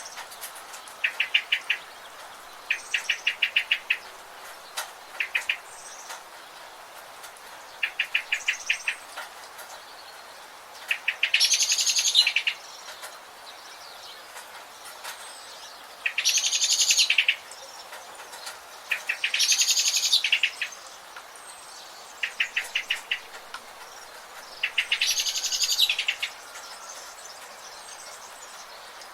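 Forest birds calling over a steady background hiss. Short, rapid ticking trills repeat every few seconds, and four times a longer, louder buzzy call lasts over a second.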